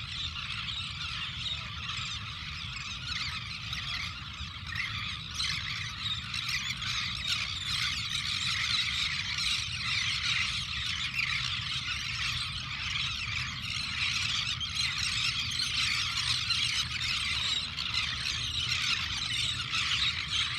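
A large flock of wetland birds calling at once: a dense, unbroken chorus of high-pitched overlapping calls, over a steady low hum.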